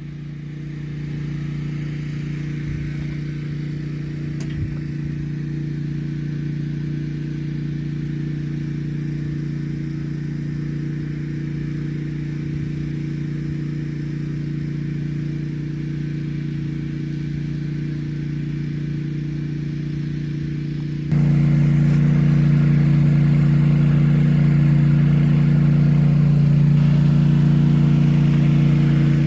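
A vehicle engine running steadily with a low, even drone. About 21 seconds in it suddenly gets louder and stays at that level.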